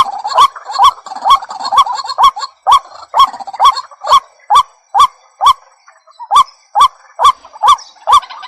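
White-breasted waterhen calling: a steady run of short, upward-hooked notes, about two a second, with a brief gap around six seconds in.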